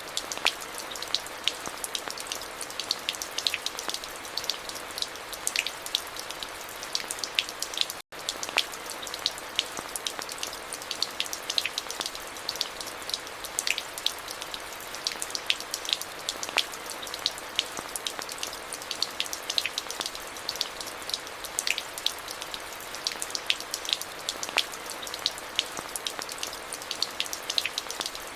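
Steady rain: a constant hiss with many sharp, close drop impacts ticking on a surface. A split-second dropout cuts the sound out about eight seconds in.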